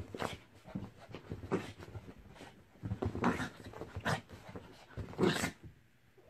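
Small fluffy dog growling and yapping in about six short bursts while play-fighting with a cat, the loudest burst a little after five seconds in.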